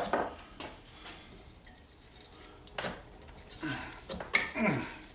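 Metal tools and engine parts clinking and knocking against each other in a handful of separate strikes, the loudest a sharp clink a little past four seconds in.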